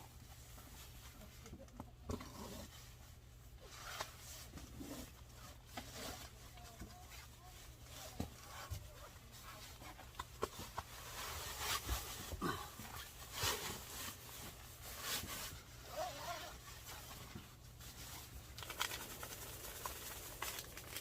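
Scattered rustling, clicks and light knocks of camping bedding and gear being handled and arranged, busier in the second half, over a steady low hum.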